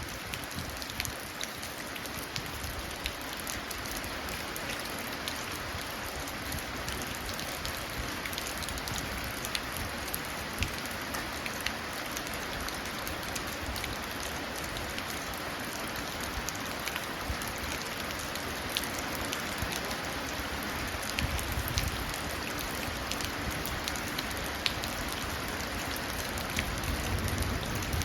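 Steady rain falling into puddles, an even hiss of rain with many small, sharp drop taps scattered through it.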